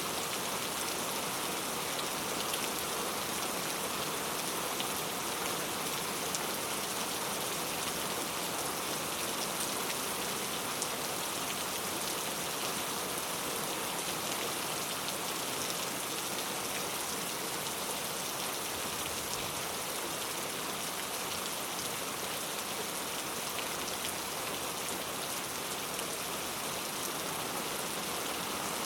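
Steady rain falling, an even dense hiss with scattered faint drop ticks.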